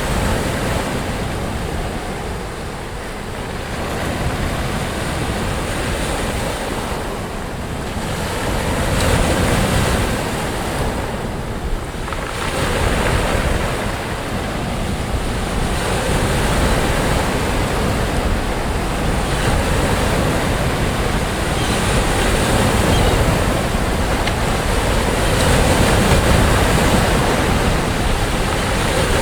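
Sea waves breaking and washing up a beach in steady surf, swelling and easing every few seconds.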